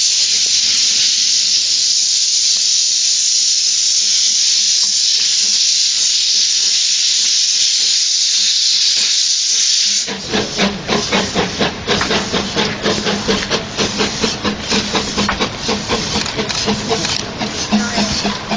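Quarry Hunslet steam locomotive letting off steam in a loud, steady hiss. About ten seconds in the sound changes abruptly to a rapid, uneven clatter of pulses over a low hum.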